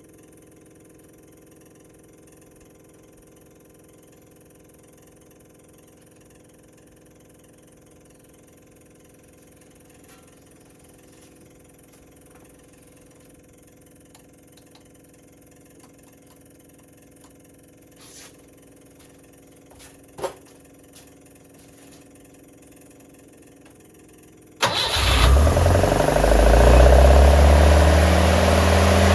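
Datsun Bluebird 411's J-type four-cylinder engine, fitted with an MGB intake manifold and a knockoff Weber carburetor, starting up. It comes after a long quiet stretch with a few faint clicks, catches abruptly near the end, its speed rising over a couple of seconds before it settles into a steady run.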